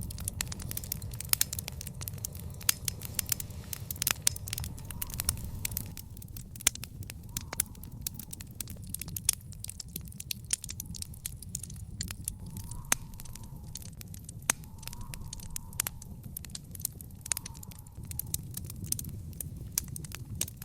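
Wood fire in a backyard fire pit crackling, with frequent sharp pops over a low steady rumble. The pops come thickly at first, then more sparsely.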